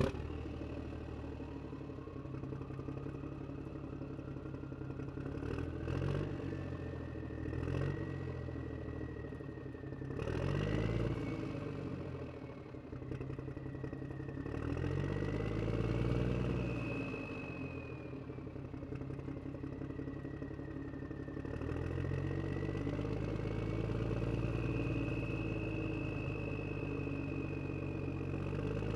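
Toy RC car driving, its motor giving a high whine that slowly rises and falls with speed over a low engine-like hum, with some clatter.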